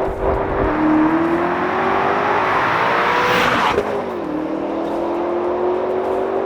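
BMW X5M/X6M LCI's S68 twin-turbo V8 accelerating hard through the gears on a Dinan valved exhaust with X-pipe. The exhaust note rises steadily in pitch and drops with an upshift under a second in and again about four seconds in.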